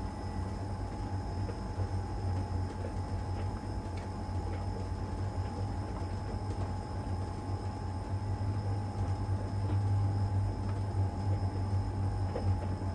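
LG heat pump dryer running in its Cupboard Dry stage: a steady low hum with a steady whine above it, and a few faint light ticks from the turning drum and load.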